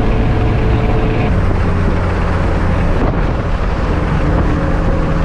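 Car engine running steadily under way, with wind noise; its note changes to a new steady pitch about a second in.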